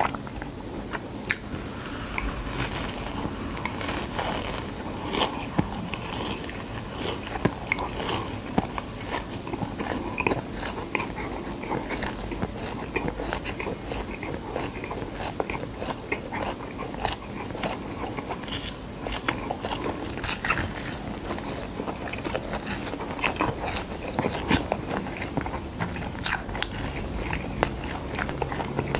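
Close-miked biting and chewing of crisp dried gamtae seaweed wrapped around rice, with dense, crackly crunching throughout.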